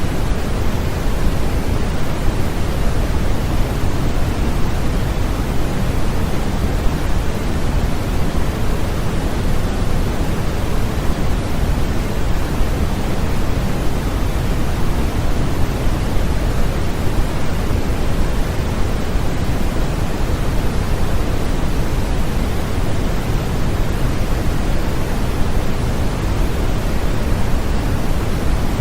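Steady synthetic noise for infant sleep, even and unchanging, weighted toward the low end like pink noise rather than hissy white noise.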